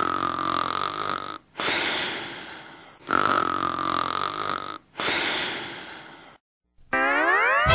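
Loud, slow snoring: a long drawn-in breath carrying a steady whistling tone, then a breath out that fades away, repeating about every three seconds. It stops about six and a half seconds in, and near the end a rising glide in pitch starts.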